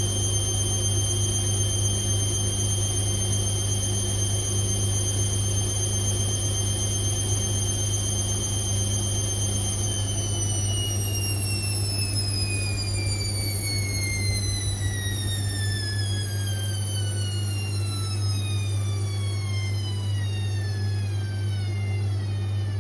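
Indesit IWC6165 washing machine spinning with a high motor whine over a steady low hum. About ten seconds in, the whine starts falling steadily in pitch as the drum slows down from the spin.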